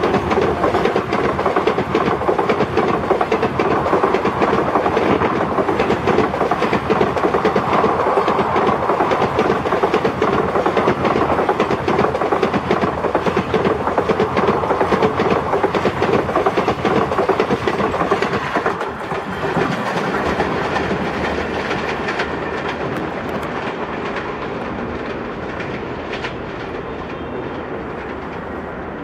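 Passenger coaches of an express train rushing past at speed close by, their wheels clattering over the rails. About 18 seconds in the last coach goes by and the sound drops, then fades as the train pulls away.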